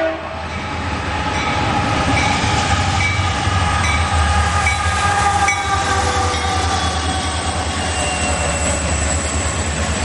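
Two diesel freight locomotives, a GE AC4400CW leading an EMD SD40-2, pass close by with engines running, a steady heavy rumble whose pitched tones slowly fall as they go by. Autorack cars follow, and there are short high squeals from the wheels about once a second early on.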